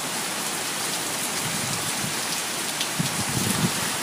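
Heavy rain pouring and pattering steadily on surfaces, with a faint low rumble at times.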